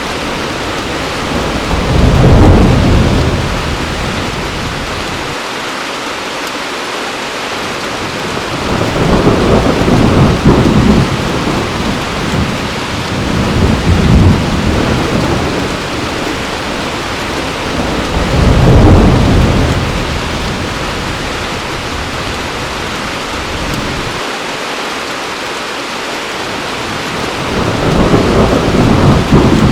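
Heavy rain falling steadily, with rolls of thunder swelling and fading every few seconds, about five in all; the loudest come about two seconds in and a little past the middle.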